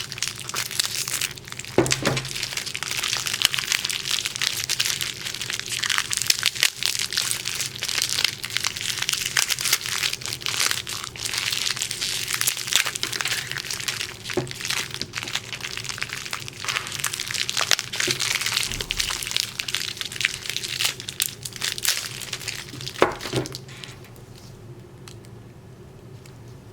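Continuous crinkling and crackling, like material being crumpled or handled, with scattered sharp clicks and a few louder knocks. It stops about 24 seconds in, leaving a faint hiss.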